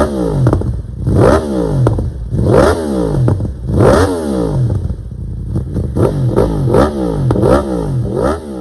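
Inline-four superbike engine revved at a standstill in repeated throttle blips, each a quick rise in revs followed by a falling run back down. About one blip every second and a bit at first, then coming quicker, about every 0.7 s, in the second half.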